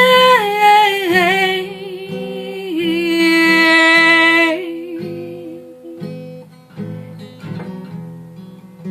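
A song with acoustic guitar: a sung note is held with vibrato and slides down, then a second long wordless note is sung, both over the guitar's picked chords; about four and a half seconds in the voice stops and the acoustic guitar plays on alone.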